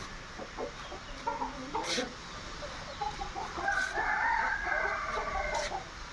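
A rooster crowing: one long crow starting about halfway through, with a few short clucking calls before it.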